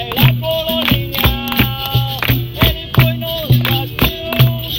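Live capoeira roda music: voices singing over a steady percussion rhythm of low drum thumps, shaken rattles and tambourine jingles.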